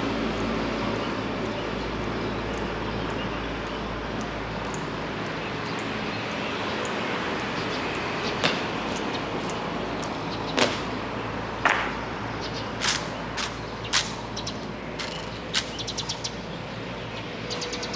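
Steady hiss of rain, with about a dozen sharp clicks or knocks at irregular intervals starting about halfway through.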